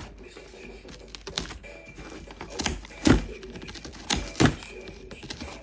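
A series of irregular sharp knocks and clicks, with the loudest one about three seconds in and two more close together around four seconds in.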